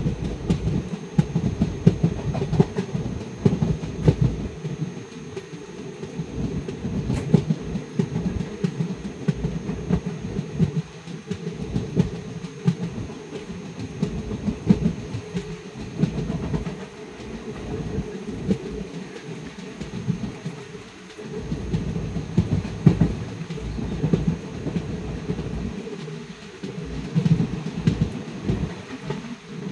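Passenger express train running at speed, heard from an open coach doorway: a continuous rumble with the irregular clatter of wheels over the rail joints.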